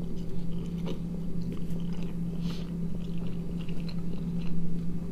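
A person chewing a mouthful of soft filled wrap roll with small, wet, irregular mouth sounds. A steady low hum runs underneath.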